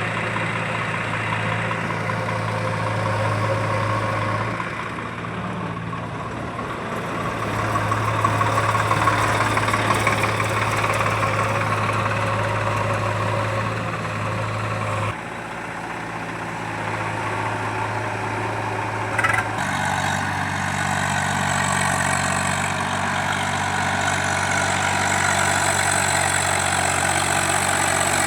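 Heavy diesel engines of a JCB backhoe loader and tractor running at work, the engine note shifting a few times. A short sharp knock about nineteen seconds in.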